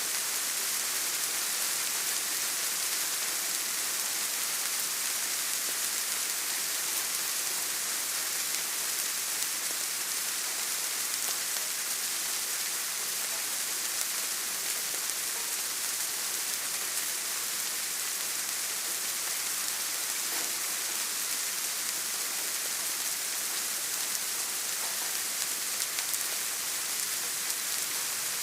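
Steady rain, a dense even hiss that sits mostly in the high end and does not change.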